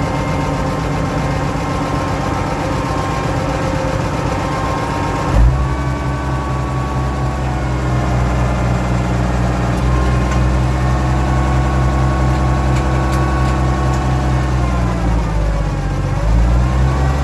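Oliver 1650 tractor engine running steadily, with a single thump about five seconds in. Near the end the engine pitch dips and then comes back up, as if briefly loaded.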